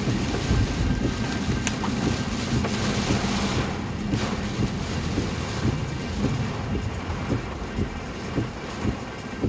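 Heavy rain pelting a moving car, with a steady low rumble of tyres on the flooded road and a rushing hiss that eases a little partway through. The windscreen wipers on high speed beat about once a second, and there is one sharp click about two seconds in.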